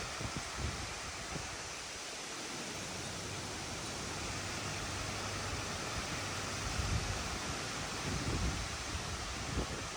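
Strong gusty wind from a hurricane, a steady rushing with low buffeting thumps on the microphone that pick up about seven seconds in.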